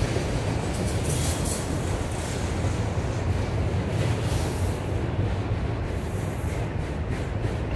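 Freight train rolling past: a steady rumble of railcar wheels on the rails, with scattered light clicks.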